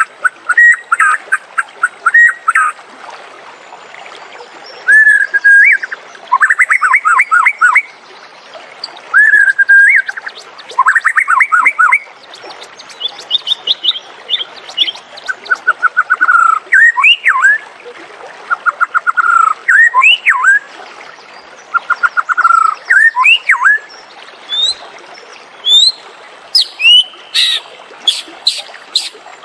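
White-rumped shama singing: loud, varied phrases separated by short pauses, mixing fast runs of repeated notes with rising and falling whistles and a few very high thin notes.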